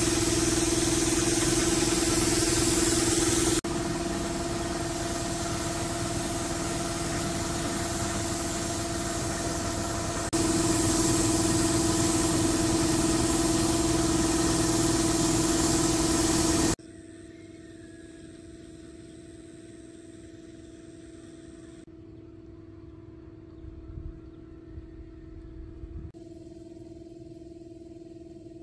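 A car engine running steadily at idle, heard in a few spliced takes: loud at first, then much quieter for the last ten seconds or so.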